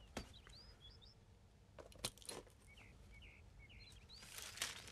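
Faint chirping of small birds, several short rising and falling chirps, with a few short rustles of a paper sheet being handled and unfolded, the loudest near the end.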